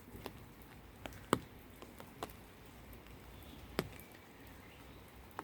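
Light rain: scattered, irregular drops tapping one at a time, with one or two louder drips about a second in and near four seconds in, over a faint low background hum.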